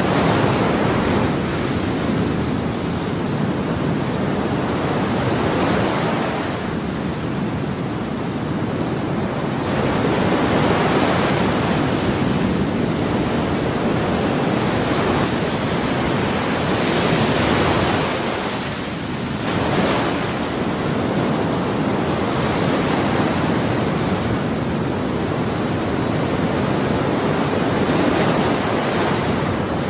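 Ocean waves breaking and washing on a shore: a continuous rushing surf that swells and eases every few seconds, with a short lull about two-thirds of the way through.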